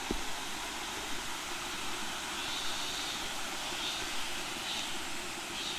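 Steady rushing hiss of a waterfall, falling water with no break in it, and a soft knock right at the start.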